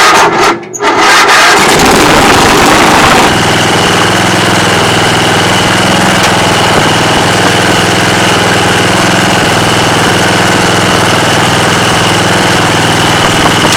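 2007 MTD Huskee LT4200 lawn tractor engine cranked and catching within about a second, running fast for a couple of seconds, then settling to a steady run with a steady high whine over it.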